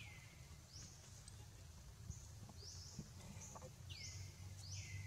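A bird calling over and over, faintly: high notes that each sweep downward, about one a second.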